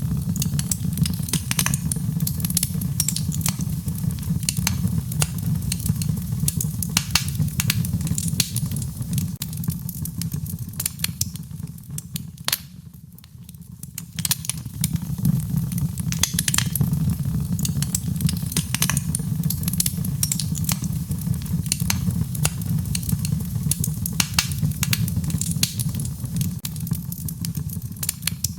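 Wood fire crackling and popping in a fireplace, with irregular sharp pops over a steady low rumble. Everything dips briefly about halfway through.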